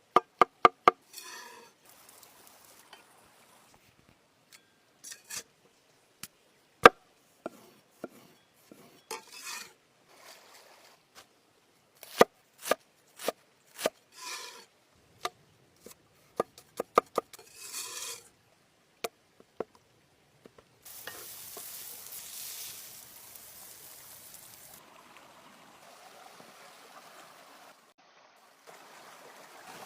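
Outdoor food preparation: a run of sharp knocks and taps from utensils, with short scraping and stirring strokes in between. About two-thirds of the way through, a steady hiss begins.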